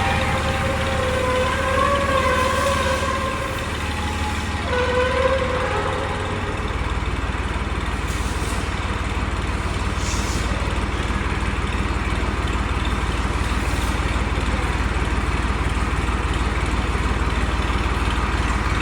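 An engine running steadily with a low hum, with a wavering pitched tone over it for the first six seconds or so.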